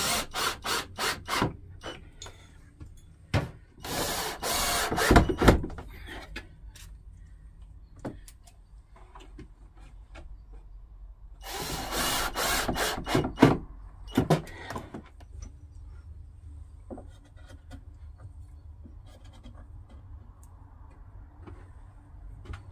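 Hand work on wood: a quick run of short scraping strokes, then two longer bursts of rubbing or rasping against wood, with lighter knocks and handling in between.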